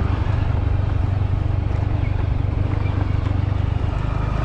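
Vehicle engine running steadily with rumble from travelling over a rough unpaved track, a dense low drone with an even noise haze above it.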